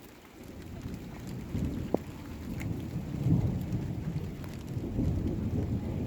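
Rain coming down in a rainstorm, with a low rumble of thunder that swells about a second and a half in and stays loud. A single sharp click about two seconds in.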